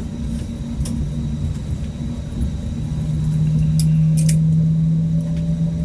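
Airbus A320neo cabin noise from inside the aircraft on the ground: a steady low engine hum over a rumble, the hum growing stronger about halfway through, with a few short clicks.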